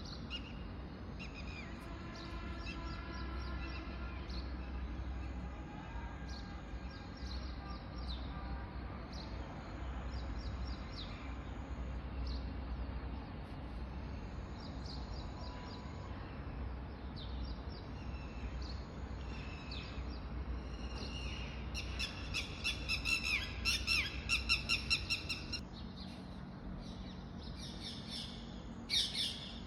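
Songbirds chirping and calling throughout, with a louder run of rapid, repeated chirps about three-quarters of the way through and another brief loud burst near the end, over a steady low rumble.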